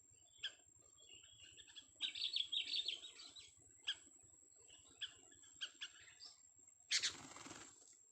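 Young sooty-headed bulbul (kutilang) chirping: a quick run of high notes about two seconds in, then single sharp chirps every second or so. About seven seconds in there is a louder, noisy burst lasting under a second.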